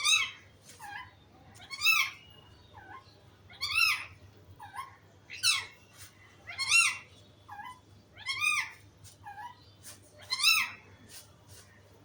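Pet parrot calling in a loud, repeated two-part squawk: a rising-and-falling screech followed by a softer, lower note, seven times at roughly two-second intervals.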